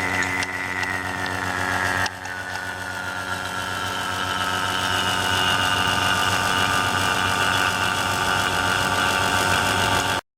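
An electric machine motor running steadily with a low hum and a high whine that slowly falls in pitch, with a brief drop about two seconds in and an abrupt stop near the end.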